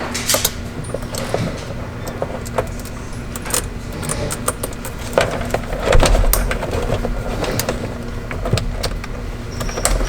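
Irregular metal clicks and clinks of hand tools fastening battery ground-wire terminals, over a steady low hum.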